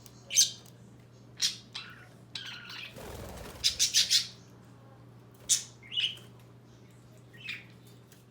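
Pet budgerigars giving short, sharp chirps and squawks at irregular intervals, with a quick run of four calls about four seconds in and a brief rustle just before them.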